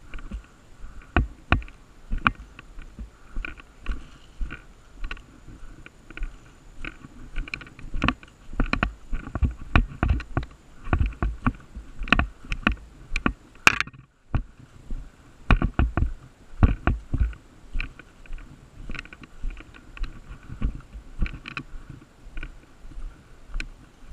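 Irregular footsteps, knocks and rustling of gear rubbing against a body-worn camera as the wearer moves about, with a sharp click about fourteen seconds in followed by a moment of silence.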